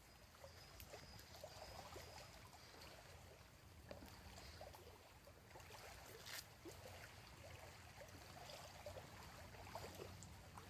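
Near silence: faint outdoor background with a few scattered soft ticks, one a little stronger about six seconds in.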